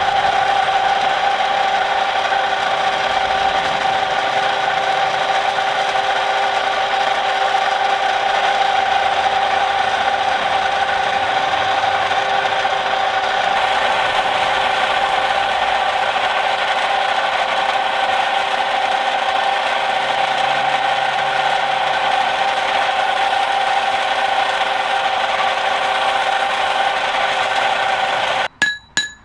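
A machine running steadily with a constant whirring pitch, like a motor-driven tool in a smithy. Near the end it cuts off abruptly and a hammer starts striking metal in a quick, even rhythm of about three ringing blows a second.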